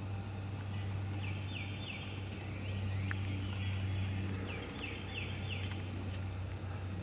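Birds calling outdoors in short groups of quick, descending high chirps, over a steady low hum.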